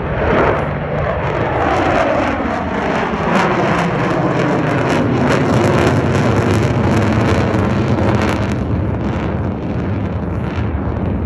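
Blue Angels F/A-18 Super Hornet jet fighters flying past: a loud jet roar that falls in pitch as they go by in the first few seconds, then carries on as a steady rush.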